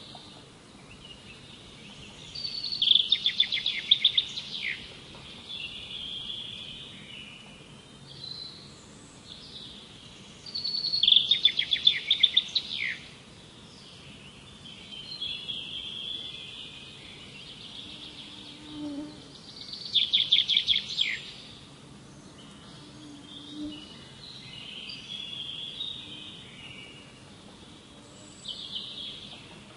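Songbirds singing. One bird repeats a loud song phrase, a fast run of notes lasting two to three seconds, about every eight to nine seconds, four times in all, with softer chirps from other birds in between.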